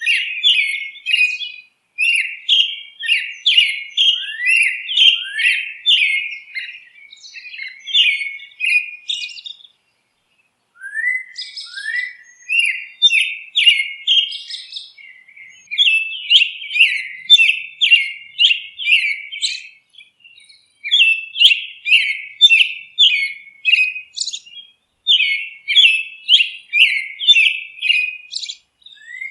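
Songbirds chirping in rapid runs of short, high, sweeping notes, in phrases a few seconds long with brief pauses and a full break about ten seconds in.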